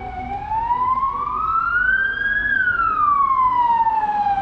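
Emergency vehicle siren in a slow wail, rising in pitch for about two and a half seconds, then falling.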